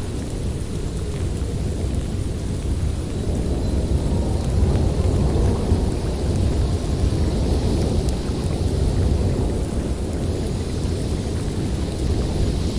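Snowstorm wind blowing steadily with a deep rumble. A high whistling hiss swells about halfway through and again near the end.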